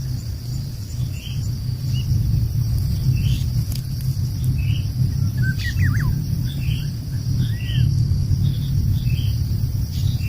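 Outdoor ambience: small wild birds chirping, with a quick warbling song phrase about six seconds in, over a steady high insect drone and a loud, low, steady rumble.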